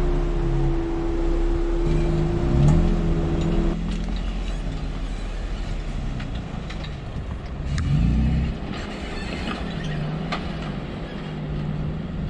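Jeep engine running slowly while crawling a rock trail, with a steady whine that stops about four seconds in and a brief rev about eight seconds in. Scattered small clicks follow, near the end.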